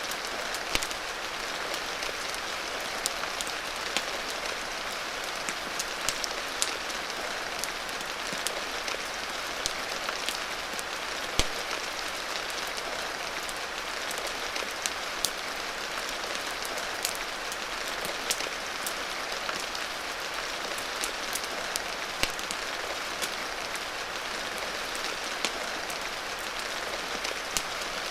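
Steady hiss of rain falling, with sharp, irregular pops and crackles of a wood fire scattered through it every second or so.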